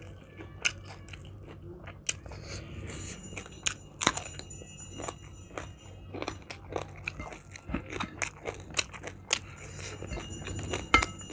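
Close-miked chewing of crunchy food, a raw purple eggplant dipped in sambal, with many short, sharp crunches and wet mouth sounds. The loudest crunches come about four seconds in and near the end, over a faint low hum.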